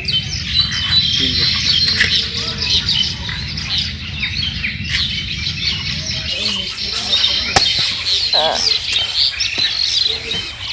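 Many small birds chirping and calling at once, with a low rumble underneath for the first half and a single sharp click about seven and a half seconds in.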